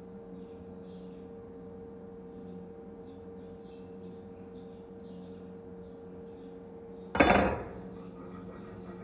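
A single loud metal clank about seven seconds in, ringing briefly before dying away, over a steady low hum and faint high chirps.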